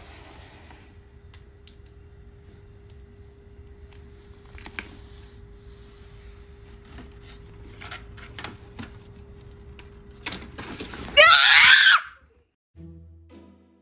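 A loud, shrill, wavering scream about eleven seconds in, lasting under a second. Before it is a long stretch of low steady hum with scattered light clicks.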